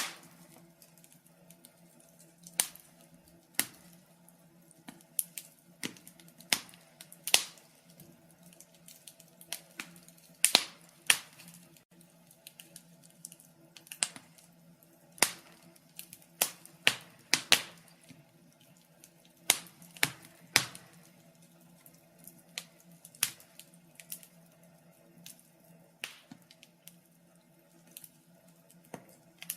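Wood fire crackling: sharp, irregular pops and snaps, some loud and some faint, sometimes in quick clusters and at other times a second or more apart, over a faint steady low hum.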